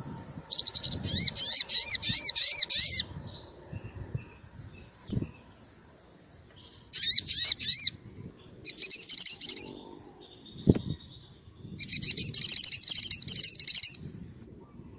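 Sogon sunbird singing in four bursts of rapid, high, trilled chattering, each lasting one to two seconds with short gaps between, and two sharp clicks in the pauses.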